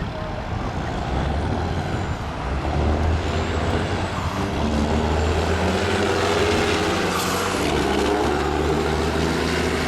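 Big-rig diesel truck engines running with a low, steady sound that grows louder about three seconds in and then holds.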